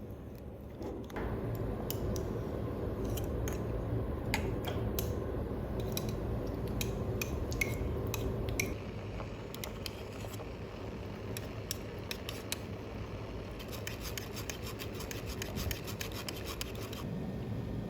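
Kitchen food-preparation sounds: steady rubbing and scraping with many sharp small clicks and ticks, louder in the first half.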